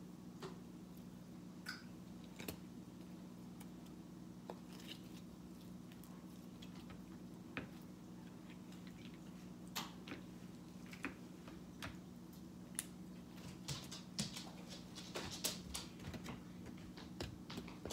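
Slime being squished and poked: scattered small clicks and squelches that come more often toward the end, over a steady low hum.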